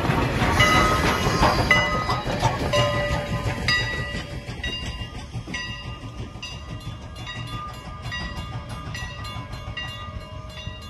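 Steam locomotive No. 89 and its caboose rumble over a grade crossing, the rumble fading as the train moves off. Through it the crossing signal's warning bell rings in quick, evenly repeated strikes.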